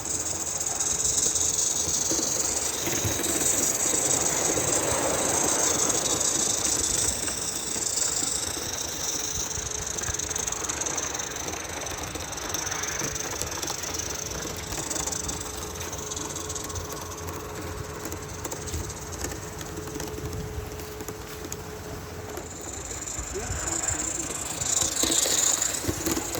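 Roundhouse Taliesin live-steam model locomotive running on a garden railway, with a steady hiss of steam that swells in the first several seconds and again near the end.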